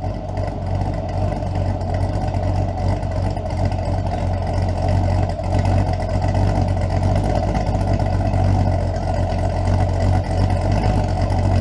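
Engine of a street-rodded 1958 Chevrolet Apache pickup running steadily, with a deep, even low note.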